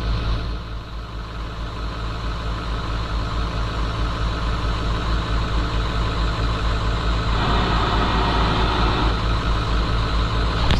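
Diesel truck engine idling steadily while its compressor builds air for a second, dead truck's brake system. About seven seconds in, a louder rush of noise rises for a couple of seconds.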